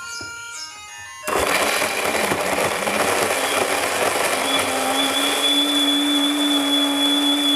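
Background music, then about a second in an electric mixer grinder starts up suddenly and runs loudly, churning peeled sugarcane pieces with water. A steady motor whine settles in about halfway through.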